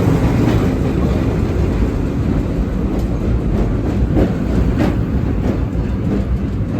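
Subway train running on the track: a steady rumble with a few sharp wheel clacks over rail joints.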